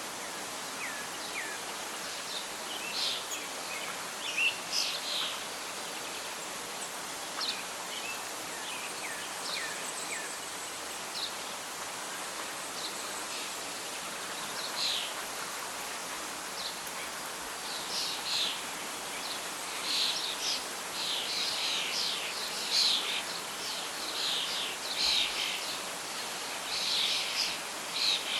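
Birds chirping and calling over a steady hiss of wind and rustling leaves. The calls come scattered at first and grow busier in the second half.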